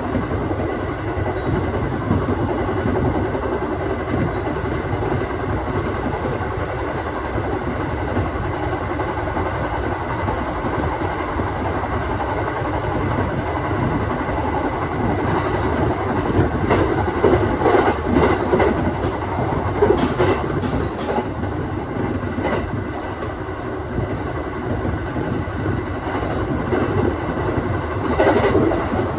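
Aoimori Railway 701 series electric train running along the line, a steady rumble of wheels on rail with a faint steady hum, heard from inside the car. Clusters of wheel clicks over rail joints come about two-thirds of the way through and again near the end.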